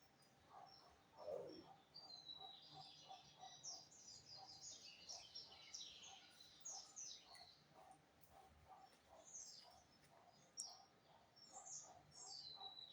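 Lined seedeater (bigodinho) singing faintly: quick runs of high chirped and trilled notes with short downward sweeps.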